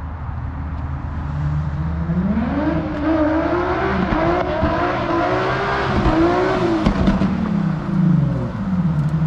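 Car engine revving hard, its note climbing about two seconds in, wavering up and down at high revs for several seconds, then dropping back down near the end, as the car is driven in a drift.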